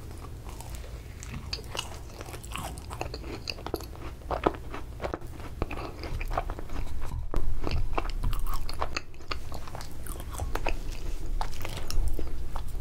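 Close-miked chewing of an ice cream macaron: a bite into the shell, then many small crunches and wet clicks as it is chewed. The chewing grows louder about halfway through.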